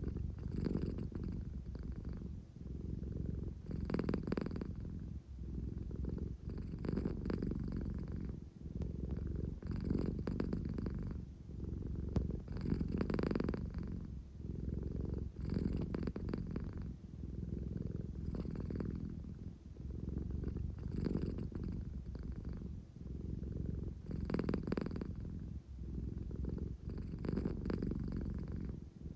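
American Shorthair cat purring steadily, a low continuous rumble that swells about every three seconds.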